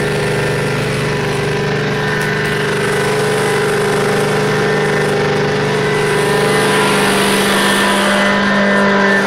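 Kohler 22 hp V-twin engine of a Prochem Legend SE truck-mount carpet cleaning unit running steadily, driving its Cat high-pressure pump.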